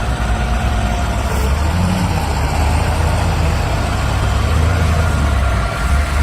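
Heavy vehicle engine running steadily, a constant low-pitched sound with a noisy haze over it.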